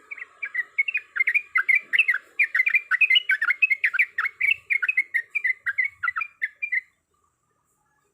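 Yellow-vented bulbul (trucuk) singing a fast, chattering run of short warbled notes, about five a second, that stops abruptly about seven seconds in.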